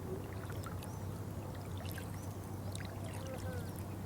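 Water pouring and trickling steadily, with a low steady hum underneath and scattered faint high chirps and clicks.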